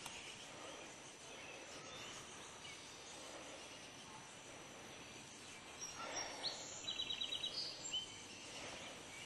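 Faint steady outdoor background with a thin high whine, and about seven seconds in a bird calling: a quick run of about eight short high notes in under a second.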